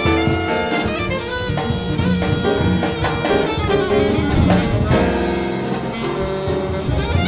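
Jazz band playing an instrumental passage: horns over a drum kit.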